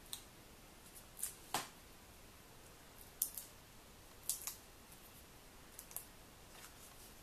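Scattered short, crisp clicks and snips of paper-crafting handling, about eight in all: small tools, paper pieces and foam-square backing being worked on a card.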